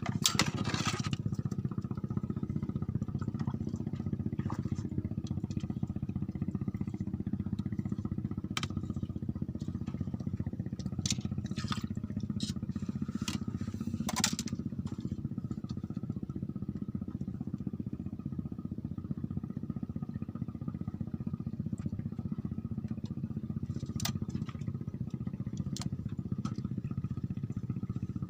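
A motor running steadily, with a few light clicks and knocks scattered through.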